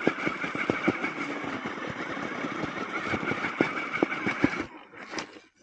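Vanquish RC rock crawler's electric motor and geared drivetrain whining steadily under load, with repeated knocks of the tyres and chassis on rock. The whine cuts off suddenly near the end, followed by a single sharp click.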